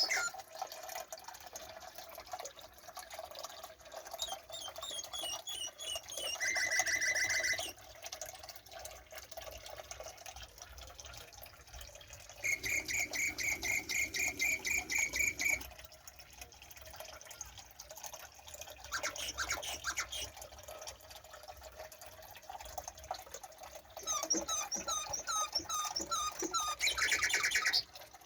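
Birds singing: several bursts of rapid trilled notes and repeated hooked chirps, a few seconds each, over a faint steady hiss.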